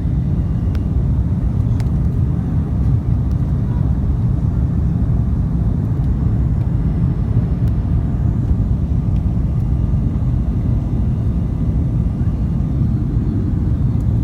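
Steady low jet cabin roar inside an Airbus A310-304 airliner: its two General Electric CF6-80C2 turbofans and the airflow over the fuselage, heard from a window seat during the climb out after takeoff.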